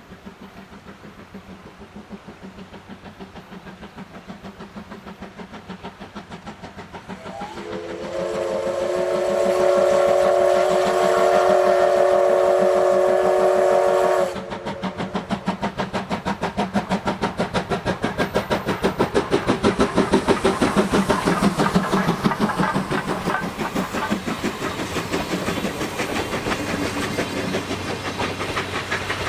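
C11-class steam locomotive No. 325 working under steam, its exhaust chuffing in a quick, even beat that grows louder as it approaches. About seven seconds in, its steam whistle sounds a chord of several tones for about six seconds, then cuts off.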